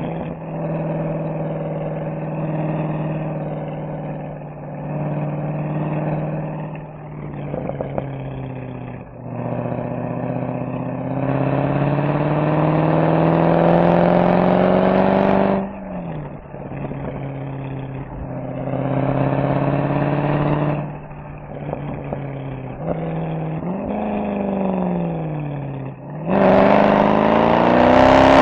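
Mercedes-AMG SL63's V8 engine and exhaust on the move, pulling up through the revs several times and easing off in between. The longest pull comes about halfway through, the revs fall away shortly before the end, and then a louder, harder acceleration follows.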